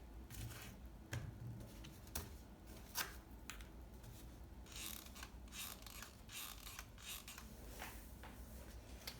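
Faint clicks and rustling from working a hot glue gun over plastic bottle lids: the gun's trigger and the lids being handled as the lids are filled with hot glue.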